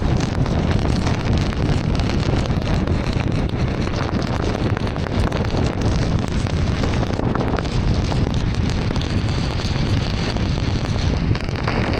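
Heavy rain and wet-road noise from a car driving through a downpour: a steady, dense rush with a strong low rumble and a fine crackle of rain.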